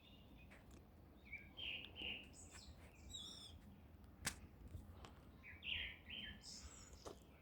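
Songbirds calling in a forest: short chirping calls in several groups, some paired, some stepping down in pitch. A sharp click about four seconds in, the loudest sound, and a fainter one near the end, over a steady low rumble.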